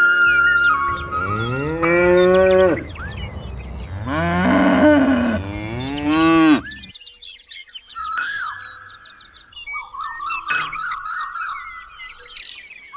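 A cow mooing twice, two long drawn-out calls, followed by birds chirping.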